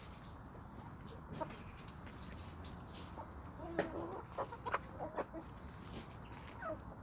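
Domestic chickens clucking, with a few scattered short clucks and then a quick run of several clucks about four to five seconds in.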